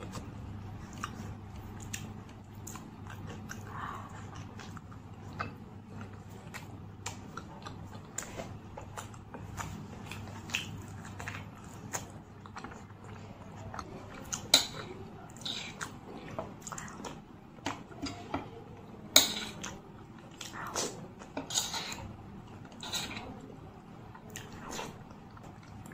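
Close-miked chewing of puri and ghugni: soft wet mouth smacks and crackles over a low steady hum, with a few sharper clicks around the middle.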